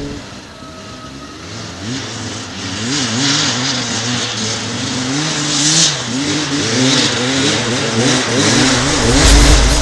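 Dirt bike engine revving, its pitch rising and falling again and again as the throttle is worked on the trail. It starts faint and grows louder over the first two seconds or so.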